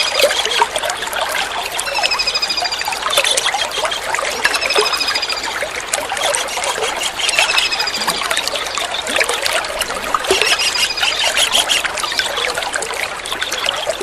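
A small kingfisher (tengkek udang) giving short, high, wavering trilled calls, repeated every one and a half to two seconds, over steady trickling water.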